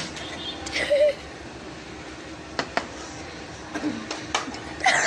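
A few sharp knocks and taps, the sound of a plastic water bottle being flipped and landing on a hard floor, two of them close together about two and a half seconds in.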